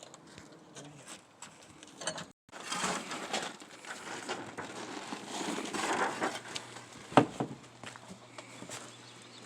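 Crunching and scraping of roof tiles and old roofing debris being pulled up and handled, with one sharp knock about seven seconds in.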